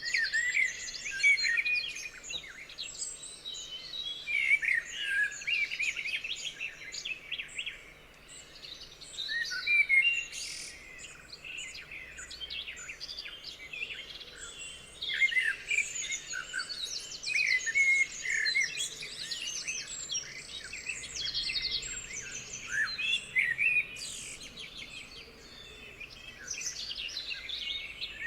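A chorus of several songbirds singing and calling together: dense, overlapping chirps, trills and whistles, with no pause longer than a moment.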